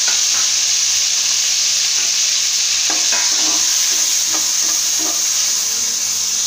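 Chopped tomatoes sizzling loudly in hot oil in a metal kadai, just after being added, with a ladle scraping and knocking against the pan a few times as they are stirred.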